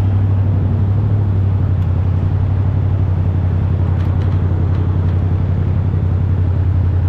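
Yamaha YZF-R7's parallel-twin engine through an Akrapovic full exhaust, running steadily at a constant low pitch with an even pulsing throb.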